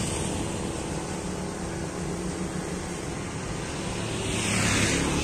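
A vehicle engine idling steadily with a low hum. Near the end a louder rushing swell passes, like another vehicle going by.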